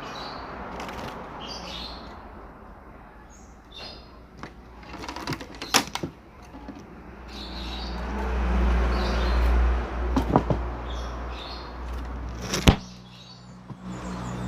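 Bullfinch giving short, faint calls while the wire cages are handled, with clicks and knocks of cage wire and a low handling rumble in the middle. One sharp loud knock comes near the end.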